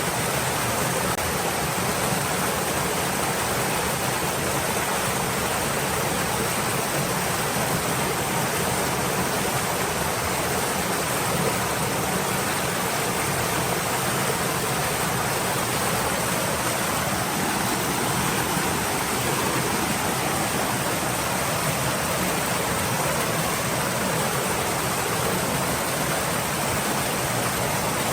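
A stream of water flowing steadily, an even rushing hiss with no breaks.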